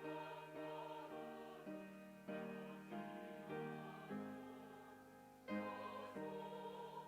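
Church choir singing a slow hymn with piano accompaniment, the chords changing on an even beat about every half second, with a longer held chord in the middle.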